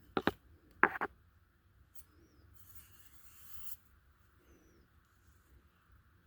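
Blade scraping across a limestone sharpening stone: two short, loud strokes in the first second, then a longer, fainter hiss about two and a half seconds in. Faint bird chirps in the background.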